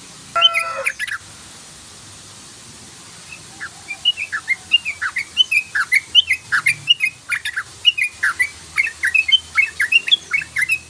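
Yellow-vented bulbul (trucukan) giving one short harsh call about half a second in. After a pause, from about three and a half seconds, it sings a fast run of chattering 'cruk-cruk' notes, several a second: the rapid 'ropel' song.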